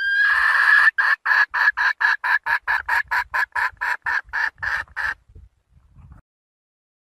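Red junglefowl hen calling to a rooster: a rising drawn-out note, then a rapid even run of short clucks, about four a second, that stops about five seconds in.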